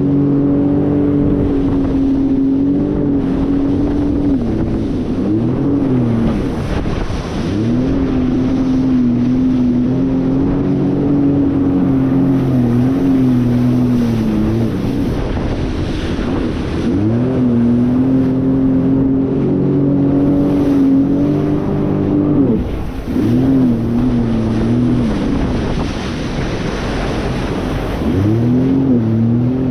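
Jet ski engine running at speed, its revs dropping and climbing back several times as the throttle is eased and reopened, with wind and water rushing past.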